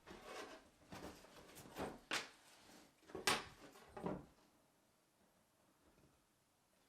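Pieces of card being handled and trimmed: a run of light knocks and scrapes over the first four seconds, the loudest about three seconds in, then quiet.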